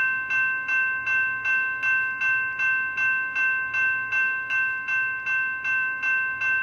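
Railroad crossing bell ringing in a steady rhythm, about three strikes a second, each strike the same ringing tone.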